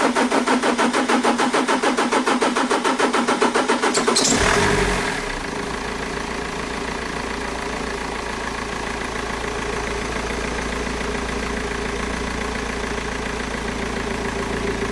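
BMW M47 four-cylinder diesel engine cranking on the starter with a steady pulse for about four seconds before it catches and settles into an idle. The long crank is the hard-start fault that the owner traces to a third injector with too much return leakage.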